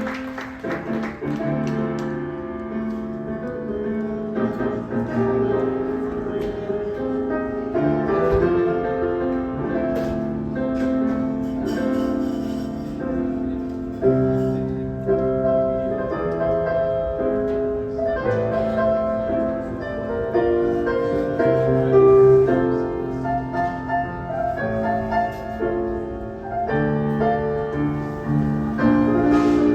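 Piano playing an instrumental passage of chords and melody, with no singing.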